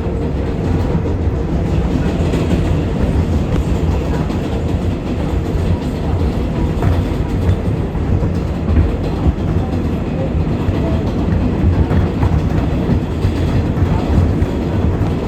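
R188 subway train on the 7 line running at speed, heard from inside the car: a steady, loud rumble of wheels on the rails.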